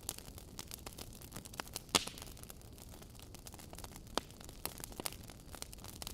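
Wood fire crackling in a fireplace: irregular sharp pops and snaps over a faint steady hiss, with louder pops about two seconds and four seconds in.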